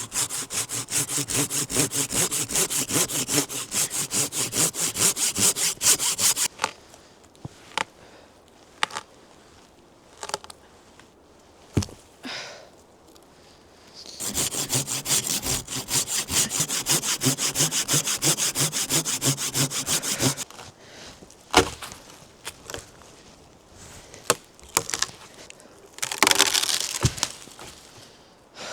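A hand saw cutting through wood with quick back-and-forth strokes, in two bouts of about six seconds each with a pause between. Between and after the bouts come a few single wooden knocks, and near the end a short rustling scrape.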